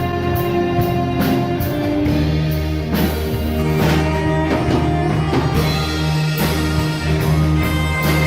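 Live band playing, with electric guitar, bass and drums keeping a steady beat under sustained chords.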